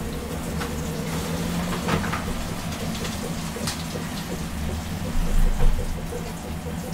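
Food sizzling steadily in hot oil in a frying pan, with light clicks of a metal utensil against the pan as the food is turned.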